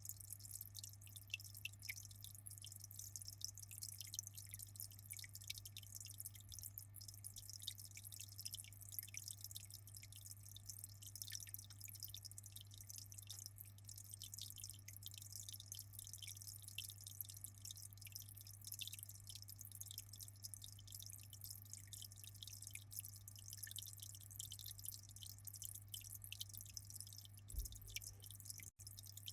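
Aquarium water trickling and dripping in a dense patter of small drops over a steady low hum. The sound drops out for an instant near the end.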